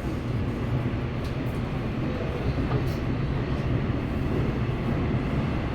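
Subway train running with a steady low rumble.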